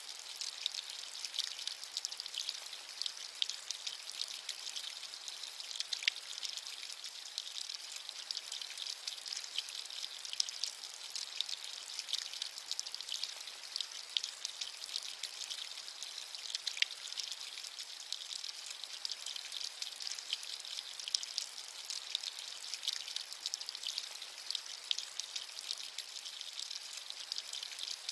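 Steady rain with many small drops pattering in a light, high hiss.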